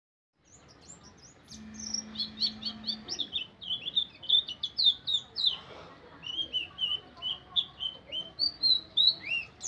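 A white-eye (pleci) singing a rapid, unbroken run of short, high chirps and slurred twitters, the chattering 'ngeriwik' song valued by songbird keepers.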